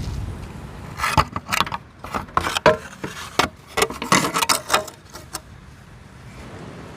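A quick run of metallic clinks and clatters, about a dozen sharp knocks over roughly four seconds, as metal tools or parts are handled, then a low steady background.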